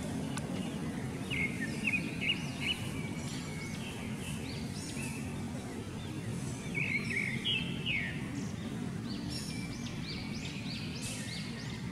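Birds chirping in several short runs of quick, arching high notes over a steady low background noise.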